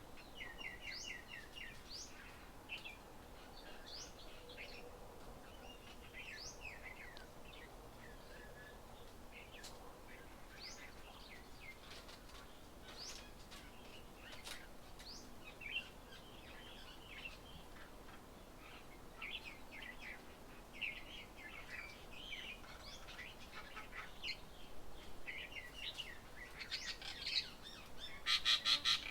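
Small birds chirping and calling repeatedly in short, quick notes, several overlapping at times. Near the end there is a fast, rattling run of notes.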